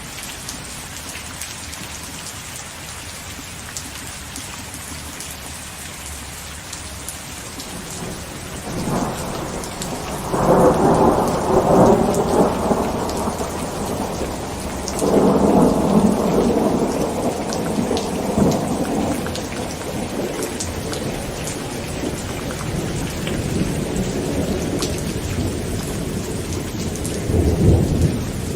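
Heavy rain falling steadily on a tent, with rolling thunder that builds about eight seconds in, rumbles loudest for a few seconds, rolls again a few seconds later and swells once more near the end.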